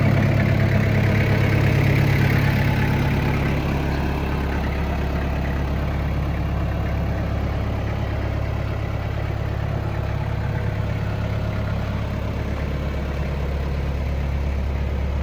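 Kubota M9000 tractor's four-cylinder diesel engine running steadily, easing down to a lower, settled idle about four seconds in.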